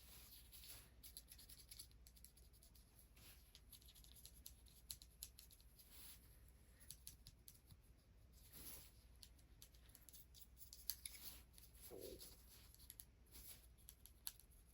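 Faint, soft rubbing and light scratchy skin sounds of hands massaging bare feet, with scattered small ticks.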